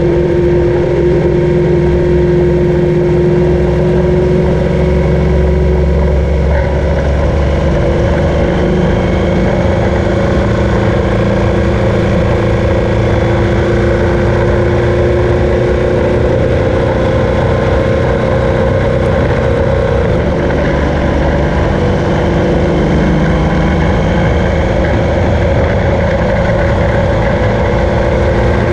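BMW R1200GS flat-twin boxer engine running steadily at a light cruise while the motorcycle climbs, its note shifting only slightly in pitch.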